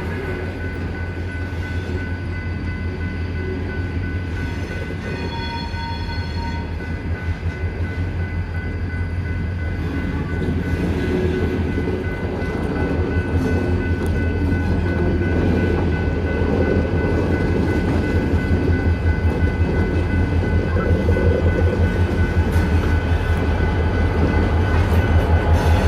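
EMD SD40-2 diesel locomotives' engines running with a steady low throb as they back in to couple onto freight cars, growing louder toward the end.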